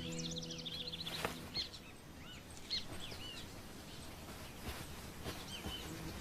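Small birds chirping: many short, quick chirps overlapping in the first second and a half, then scattered single chirps.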